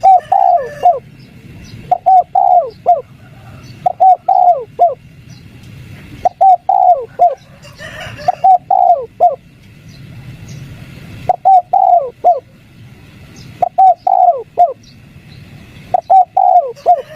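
Spotted dove cooing its three-note 'kuk 3' phrase, each note dropping in pitch. The phrase repeats about every two seconds, around eight times.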